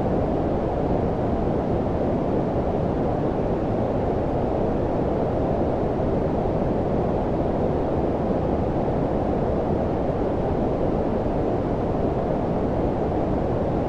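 Steady low-pitched filtered noise, like brown noise, with its energy below about 1 kHz and little above; unchanging throughout.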